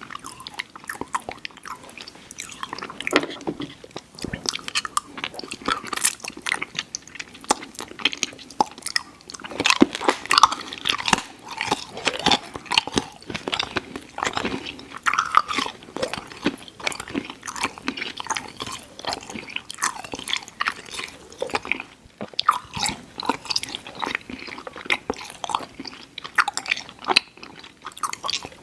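Close-up mouth sounds of chewing soft, chewy sour candy: a steady run of wet smacks and sticky clicks with the odd bite.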